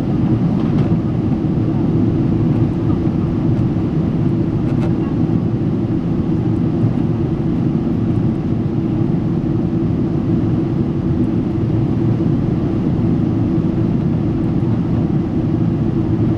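Steady cabin noise of a Boeing 777-300 jetliner in flight: an even, low rumble of engine and airflow noise heard inside the passenger cabin.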